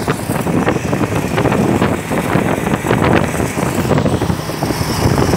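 A moving road vehicle running, with wind buffeting the microphone.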